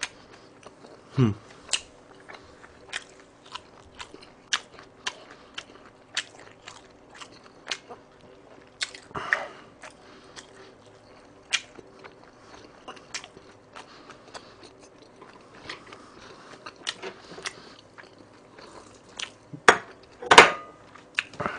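Close-miked chewing of a full mouthful of food: a long run of short, sharp wet mouth clicks and smacks. There is a louder, longer noise about 20 seconds in.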